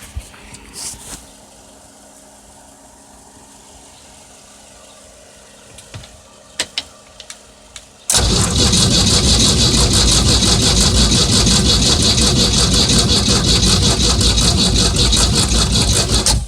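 A few sharp clicks, then the starter of a 1975 MerCruiser 3.0 four-cylinder sterndrive engine cranks it hard for about eight seconds without the engine catching, and it stops abruptly. This is an engine that turns over but won't fire after sitting unused for about two years.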